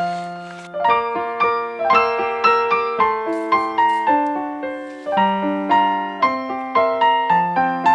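Background piano music: a gentle, steady melody of struck notes with chords underneath.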